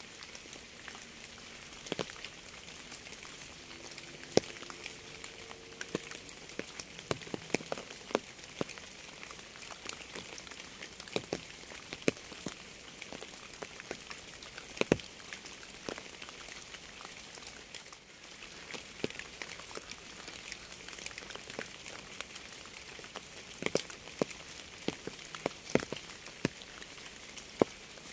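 Steady rain: an even hiss with many separate drops striking close by, a few of them sharply louder.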